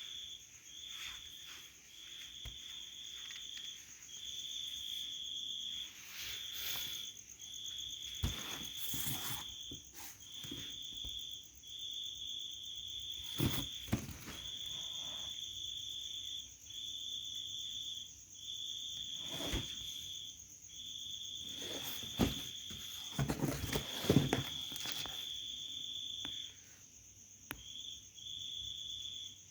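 Insects trilling in repeated bursts of a second or two with short gaps, over a steady high whine, with scattered knocks.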